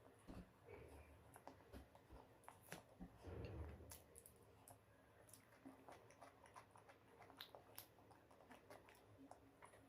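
Faint close-miked chewing and mouth sounds of a person eating, with scattered small clicks and smacks and a louder low thump about three and a half seconds in.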